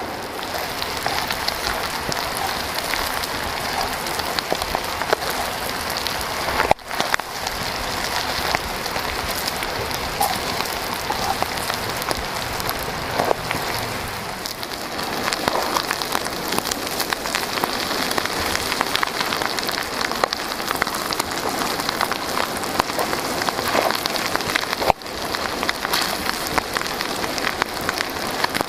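Chicken intestines sizzling and crackling in hot oil in a wok as they stir-fry with onions, garlic and chilli. The sound is steady, with two brief breaks.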